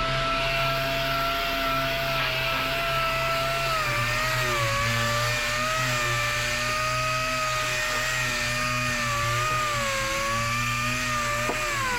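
Electric power tool running continuously with a steady whine, its pitch sagging slightly several times and dipping near the end as the tool is loaded.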